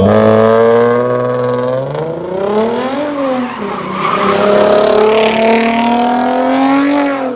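Car engine revving hard and held at high revs during a burnout or donut, with tyres squealing. The pitch rises and falls about three seconds in, climbs slowly, then drops near the end.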